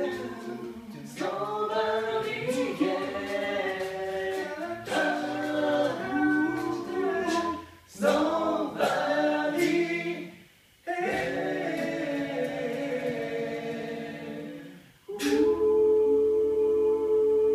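Vocal group singing a cappella in close harmony over a sung bass line, with sharp vocal-percussion hits. The singing breaks off briefly a few times, then ends on one long held chord.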